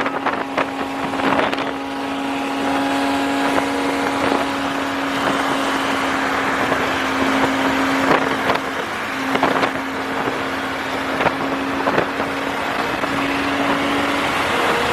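A car's engine holding a steady drone at constant revs while driving, with road and wind noise and several brief sharp cracks scattered through.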